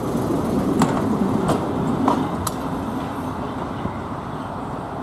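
First-generation British Rail diesel multiple unit running past and away, its wheels clicking a few times over rail joints. The steady rumble fades as it draws off.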